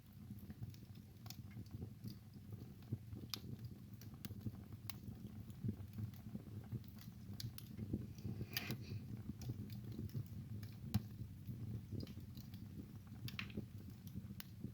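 Wood fire burning in a fireplace: a low, steady rumble of flame with irregular sharp crackles and pops, and a brief hiss about eight and a half seconds in.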